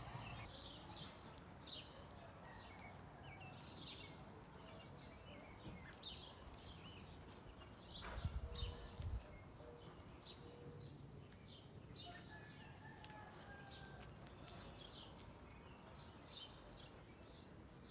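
Birds chirping faintly, short high chirps repeating every second or so, with a brief low rumble about eight seconds in.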